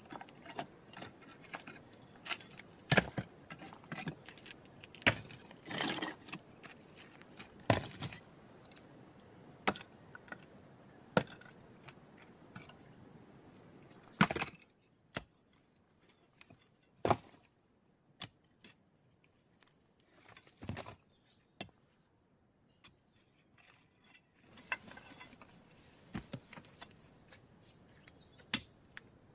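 Irregular sharp knocks and clinks of stone work, hard objects striking stone, a second or a few seconds apart, some with a brief ring.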